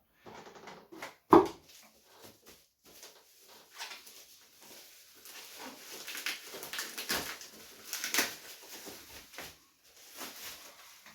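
Cardboard box and plastic packaging being handled, rustling and crinkling in irregular spurts, with one loud knock about a second in.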